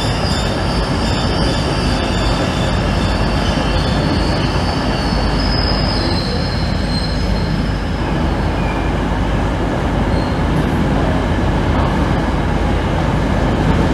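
Train moving through the station: steady, loud running noise with a thin, high squeal of wheels on the rails.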